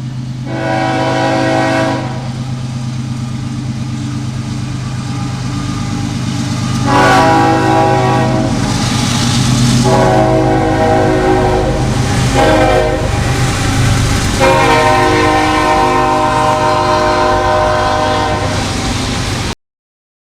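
CSX freight locomotive's air horn sounding over a steady low rumble. After one brief blast, it gives two long blasts, a short one and a final long one, the grade-crossing signal. The sound cuts off suddenly near the end.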